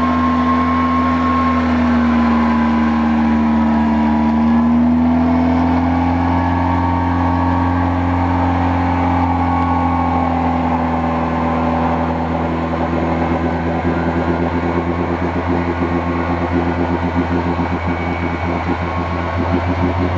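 Daihatsu Feroza's 16-valve fuel-injected engine running under load as the 4x4 creeps through deep mud and water: a steady drone that sags slightly in pitch a few seconds in and turns rougher and more pulsing in the second half.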